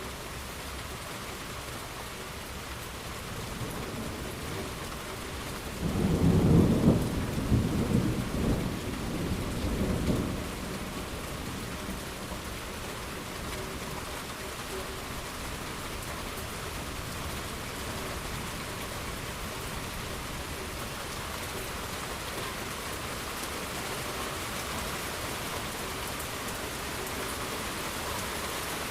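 Steady rain falling, with a clap of thunder about six seconds in that rumbles for around four seconds and fades back into the rain.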